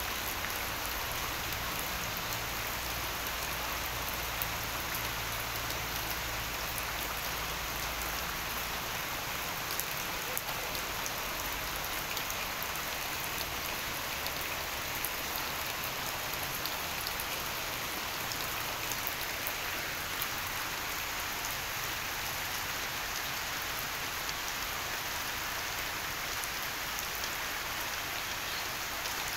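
Steady rain falling on broad leaves, puddles and wet ground: an even hiss dotted with the small ticks of single drops.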